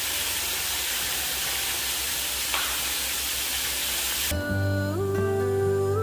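Linguiça sausage frying in plenty of hot fat in a pan, a steady sizzle that cuts off suddenly about four seconds in. Gentle guitar music follows.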